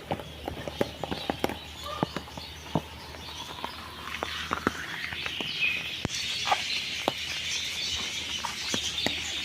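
Many small birds chirping together in a walk-through aviary, the chorus growing denser about halfway through, with a brief whistled note among it. Scattered sharp clicks and taps run through it.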